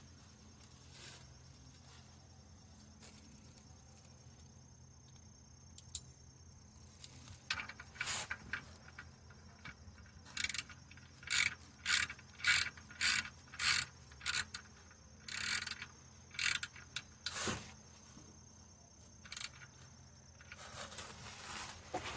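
Ratchet wrench working in a series of short clicking strokes, about two a second, tightening a part back onto a car engine after the oil has been drained.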